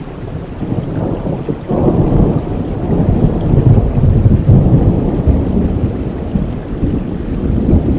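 Steady rain with a roll of thunder that swells suddenly about two seconds in, rumbles for several seconds and slowly eases off.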